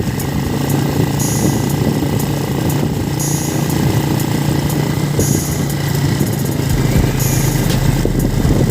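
Tractor engine running steadily with a low drone, with a short high-pitched hiss or rattle recurring about every two seconds.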